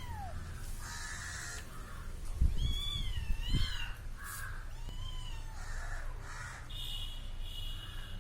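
Kitten meowing: several high calls that rise and fall in pitch, bunched in the middle, with low bumps at the same time. Harsher hoarse calls come before and after.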